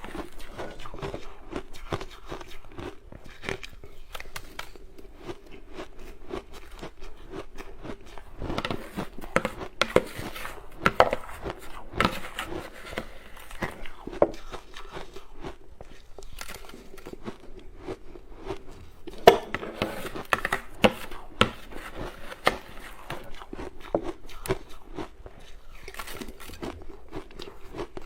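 A person biting and chewing hard ice, a steady run of close crackling crunches with louder sharp cracks now and then.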